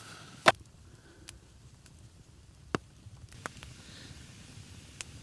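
Several sharp, irregular cracks of wood, the loudest about half a second in and another just before the three-second mark, with fainter ticks between.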